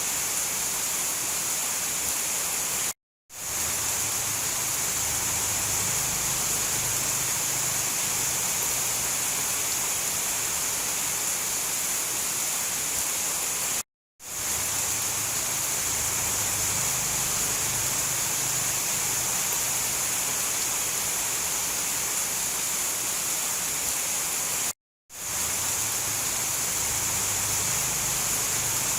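Steady heavy rain in a tropical rainforest, an even rushing hiss. It drops out to silence three times, about every 11 seconds, and fades quickly back in each time: the seams of a repeating loop.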